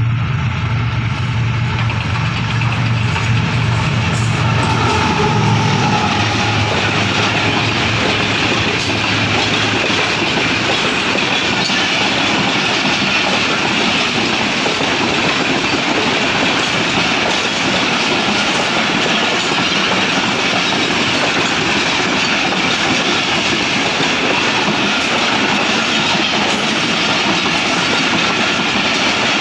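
Pakistan Railways express train passing at speed. The GE U40 diesel-electric locomotive's engine drones low as it comes by in the first few seconds, then a long string of passenger coaches runs past with a loud, steady noise of wheels on rail.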